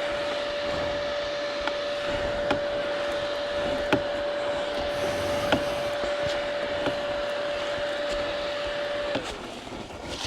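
KTM 300 EXC two-stroke dirt bike engine running at a steady speed with a high whine and a few sharp knocks over it. About nine seconds in it cuts out, its pitch falling away.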